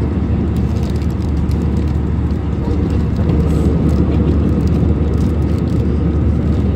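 Steady, loud drone of an airliner cabin in flight, the low rumble of engines and airflow.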